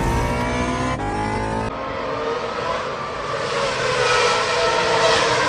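Vehicle engine sound, revving and rising slightly in pitch in the first second and a half with abrupt cuts, then running on steadily.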